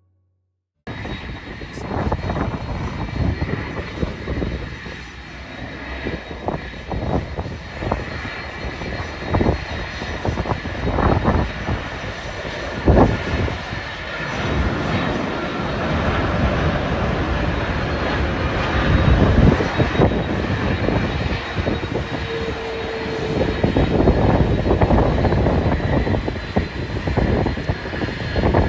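Jet aircraft engines running with a steady roar and a thin high whine, starting abruptly about a second in. Heavy wind buffets the microphone in gusts throughout.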